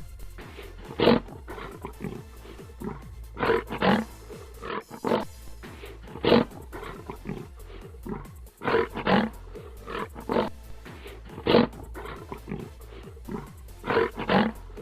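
A large animal giving repeated short, loud calls, often two in quick succession, every second or two, over background music.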